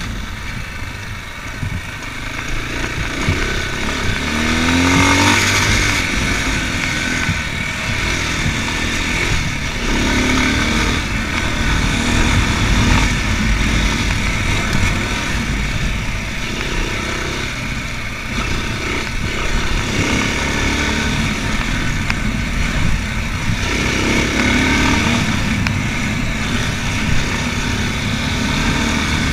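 Racer Panther 300 enduro motorcycle's single-cylinder engine running under way, rising in pitch as it is revved up three times and easing off in between.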